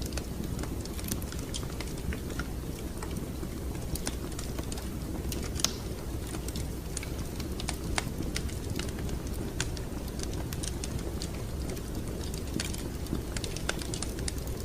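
Wood fire crackling: irregular sharp pops and snaps over a steady low rumble of the flames, with two louder pops about five and a half and eight seconds in.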